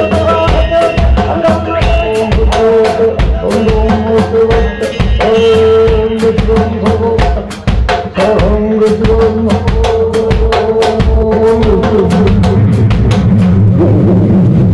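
Live band music: a drum kit keeps a steady beat under held melodic notes.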